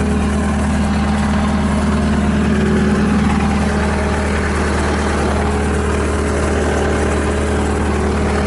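The Bobcat T190 skid steer's remanufactured Kubota diesel engine running steadily at idle, with no change in speed.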